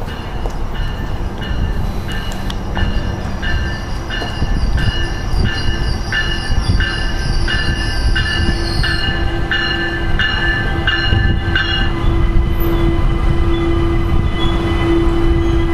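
NJ Transit ALP-46A electric locomotive pulling a train into the station, its bell ringing steadily at about one and a half strokes a second until it stops about three quarters of the way through. Under the bell is the train's running noise, with a faint high whine that falls in pitch as the train slows. A steady hum grows louder in the last few seconds as the locomotive comes alongside.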